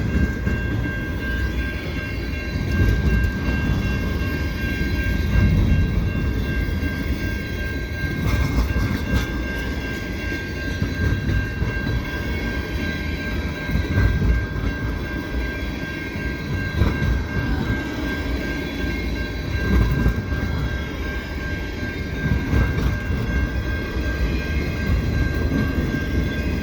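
Freight cars of a long, slow freight train rolling past: a steady rumble and clatter of wheels on the rails, with a steady high-pitched tone running throughout.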